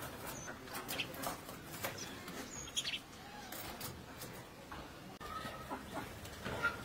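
Small birds chirping in short, scattered calls over faint clicks and ticks.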